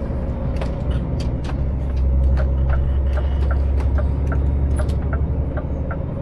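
Scania S500 lorry heard from inside the cab: the V8 diesel engine runs with a steady low rumble, and a run of light clicks and creaks comes about every third of a second through most of it.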